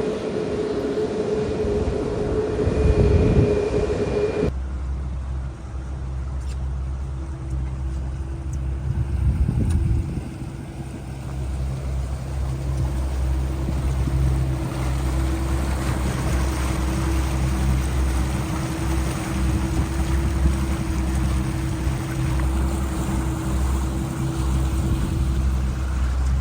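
A steady airliner cabin drone for about four seconds, then an abrupt change to a boat's engine running steadily underway, a heavy low rumble with a steady hum over it.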